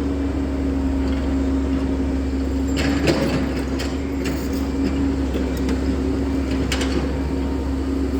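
SANY SY140 excavator's diesel engine running steadily with a constant hum. Sharp knocks and clatter come about three seconds in and again near seven seconds.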